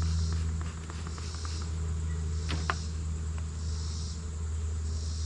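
Steady low hum of honeybees around an open hive during an inspection. An insect chirps in short high pulses about every second and a half, and a couple of sharp clicks come about halfway through.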